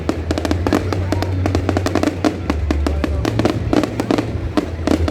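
Fireworks bursting and crackling in rapid, continuous succession, mixed with loud music that has a heavy, steady bass line.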